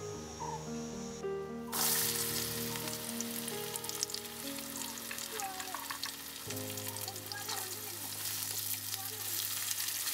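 Sliced jackfruit seeds frying in hot oil in an iron wok over a wood fire: a sizzle with crackling that starts suddenly about two seconds in, then stirring with a metal ladle near the end. Background music plays throughout.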